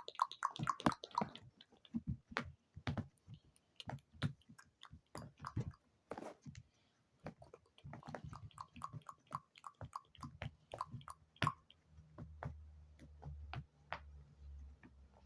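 Close-miked ASMR sounds: a run of small, irregular clicks, pops and taps, with a quick even row of short pops about eight to ten seconds in. A low hum comes in near the end.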